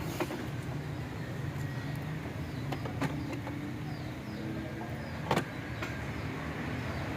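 A few sharp clicks over a low steady background hum, the loudest about five seconds in, with the Range Rover's engine switched off.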